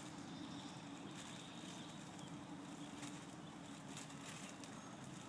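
Faint outdoor background noise with a steady low hum and a few faint ticks; no clear single event.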